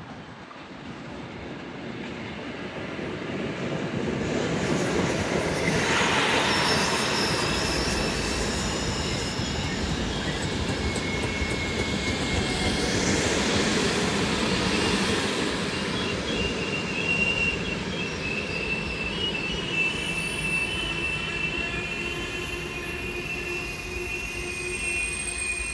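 A train running along the station tracks, building up over the first five seconds and staying loud. In the second half, high-pitched wheel squeal from the rails sets in.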